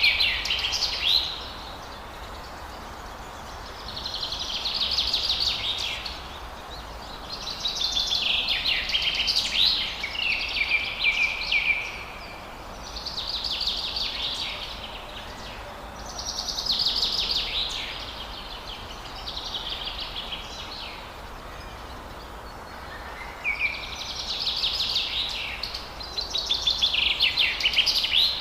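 Forest birdsong: phrase after phrase of rapid, chattering high notes, each lasting a second or two with short pauses between, about nine phrases in all, over a faint steady background hiss.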